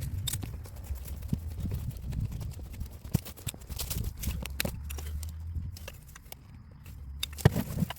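Irregular knocks and clicks, with one sharp knock about seven and a half seconds in, over a low steady hum.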